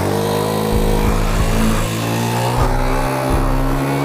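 Suzuki GN125's single-cylinder engine running at steady low revs, its pitch rising slightly just at the start and then holding.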